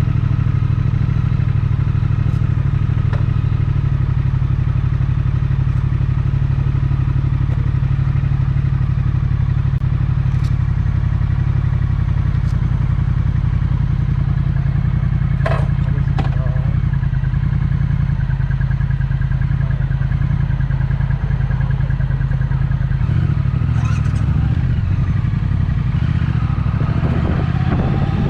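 Triumph Speed Twin's 1200 cc parallel twin idling steadily through a Vance & Hines aftermarket exhaust, just after a start. There are a couple of sharp clicks about halfway through, and the pitch lifts slightly near the end.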